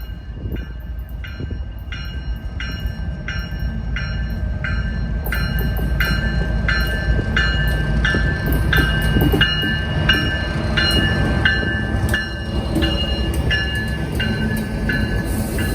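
A bell ringing steadily about twice a second, over the low rumble of an approaching freight train's diesel locomotives, which grows louder over the first several seconds.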